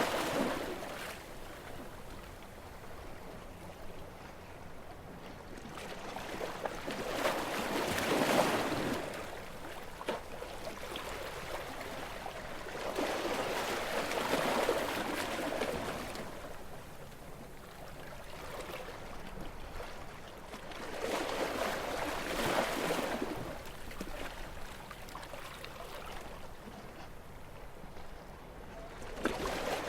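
Gentle sea waves washing onto the shore, each swell rising and fading in turn, about one every six to eight seconds.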